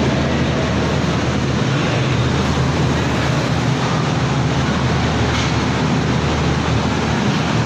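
Passenger train pulling slowly out of a station, heard from an open carriage door: a steady rumble of the moving train with a constant low drone underneath.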